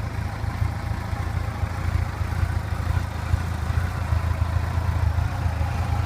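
Yamaha FJR1300's inline-four engine idling steadily.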